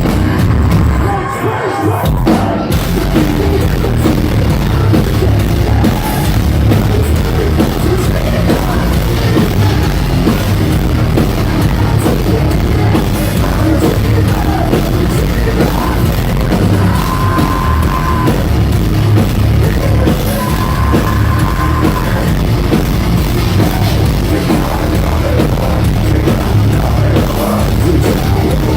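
Trancecore band playing live: heavy drums, distorted guitars and bass with singing over them. The low end drops out briefly about a second in, then the full band comes back in.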